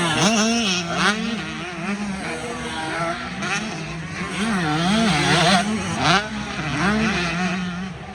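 Several motocross race engines revving hard on the track, their pitch wavering up and down over and over as riders work the throttle and shift, with a few short louder surges.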